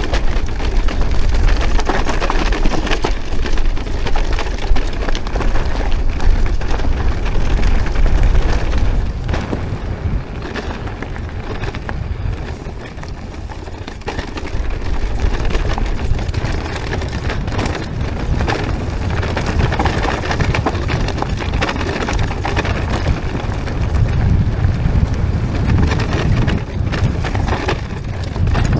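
Mountain bike riding a rough dirt trail: wind buffeting the microphone over the rattle and crunch of the bike and tyres on the ground, easing for a few seconds in the middle.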